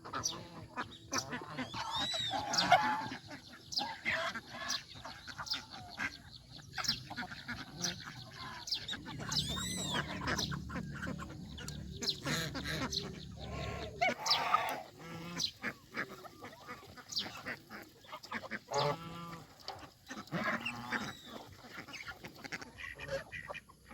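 Domestic geese honking and calling, many short calls overlapping and breaking off throughout.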